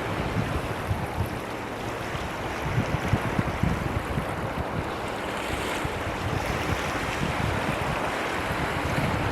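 Wind buffeting the microphone: a steady rushing noise with irregular gusty low rumbles.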